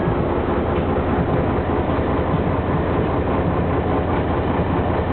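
Boat engine running steadily under way, a continuous low rumble with rattle and rushing water or wind noise over it.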